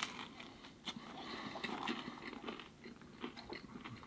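Faint close-up chewing of a crispy frozen pizza crust, with a few small crunches.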